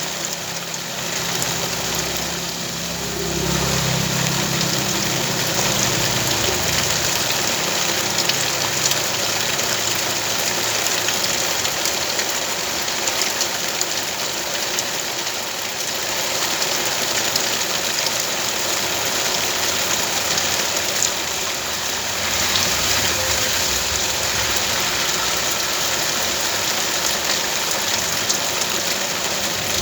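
A motor engine idling steadily under a continuous hiss of rain, the engine note strongest a few seconds in.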